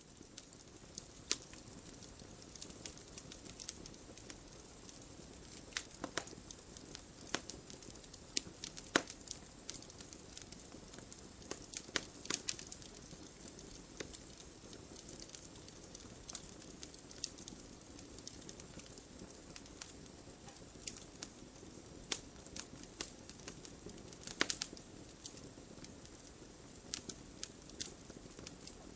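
Wood fire burning with a steady soft hiss and irregular sharp crackles and pops, a few louder snaps scattered through.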